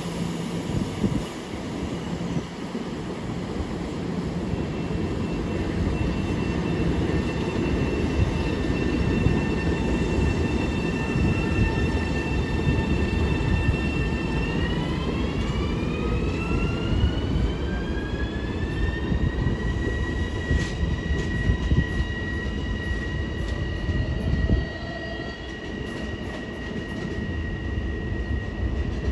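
Long Island Rail Road train running through the station with a continuous rumble of wheels on rail. A whine holds steady for several seconds, then rises in pitch about halfway through and levels off higher, as the train picks up speed.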